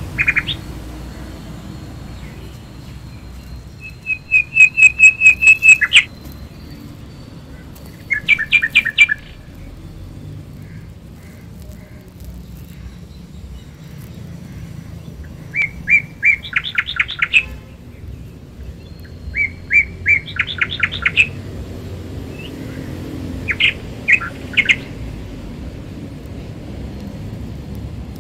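A bird calling in short bursts of rapid, sharp chirps, each burst a second or two long, about five times, over steady low background noise.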